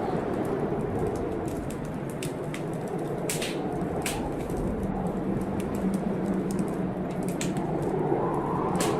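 Wood fire in a fireplace crackling, with irregular sharp pops, over a steady rushing storm background that swells slowly.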